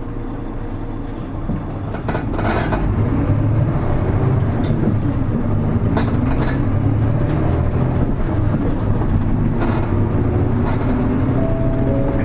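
Hino Rainbow HR city bus heard from inside the cabin while driving: its diesel engine hums steadily and grows louder about two seconds in, with road noise and a few brief interior rattles.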